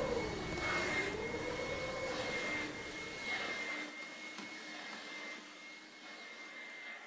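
Electroacoustic sound-collage score: a rushing, jet-like noise with a wavering, siren-like tone that fades about a second in, over a steady high whistle. The whole texture slowly dies away.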